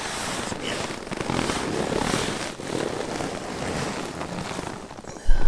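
Strong wind gusting against a tarp shelter and the microphone, swelling and easing. A sudden low thump near the end.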